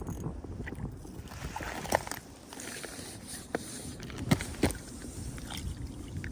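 Scrapes and a few sharp knocks over a low rumble as a largemouth bass is brought up through an ice-fishing hole, the loudest knocks a little past four seconds in.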